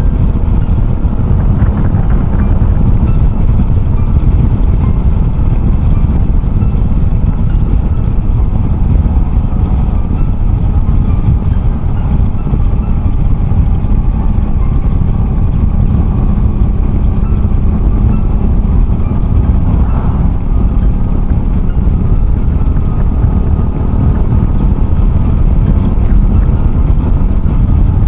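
Honda Cross Cub 110's single-cylinder four-stroke engine, fitted with an aftermarket RPM Raptor muffler, running steadily while riding, under heavy, steady wind rumble on the microphone.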